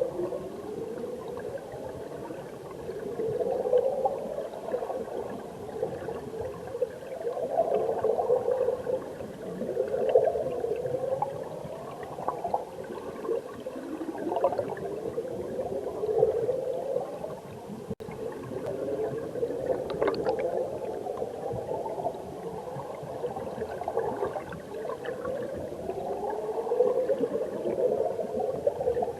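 Valley stream water heard from under the surface: continuous gurgling, bubbling flow with repeated rising warbles every couple of seconds, and one brief click near the middle.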